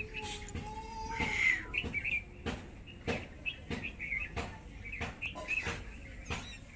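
Small birds chirping again and again, with a string of sharp clicks about every two-thirds of a second and a short breathy burst about a second and a half in.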